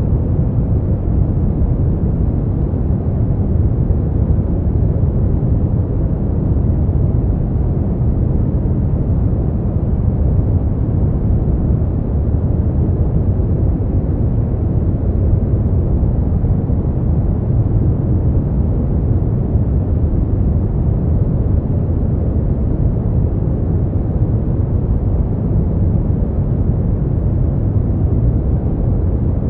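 Steady, unchanging deep noise of a sleep-noise track, heaviest in the bass and with almost no treble, closer to brown noise than true white noise.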